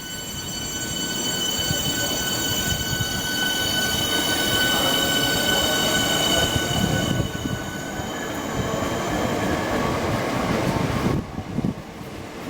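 A train running through the station, with a steady high-pitched squeal, several tones at once, over the rumble of the wheels. The squeal fades away after about seven seconds, and the rumble drops off sharply near the end.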